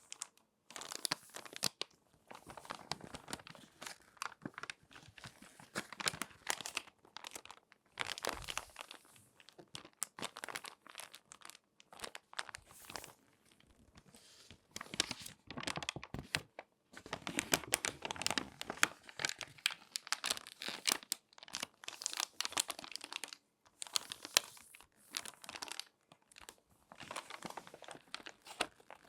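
Crinkly magazine pages being folded and creased by hand, giving close, irregular crinkling and crackling with a few brief pauses, the busiest stretch in the second half.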